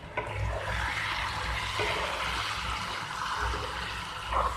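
Potato curry in a wet masala sizzling steadily in a frying pan while being stirred with a spatula, with a few faint scrapes.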